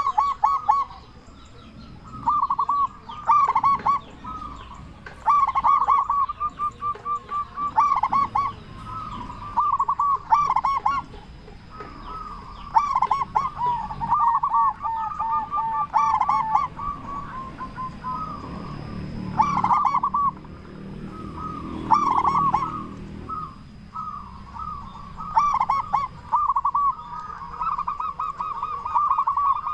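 Local zebra doves (perkutut) cooing: repeated phrases of quick, stuttering coo notes, one phrase after another with short gaps.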